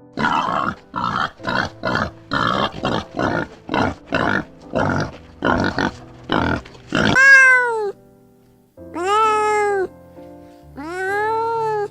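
Background music with an animal calling over it: first a run of short, rough calls about two a second, then, from about seven seconds in, three long meows from a cat, each rising and then falling in pitch.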